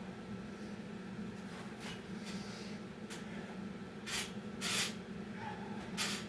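Heavy breathing after exertion: about six sharp, noisy exhales, the strongest about four to five seconds in, over a steady low hum.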